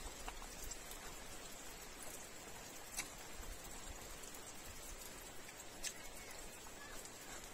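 Steady hiss of light rain, with a couple of sharp clicks, one about three seconds in and one near six seconds.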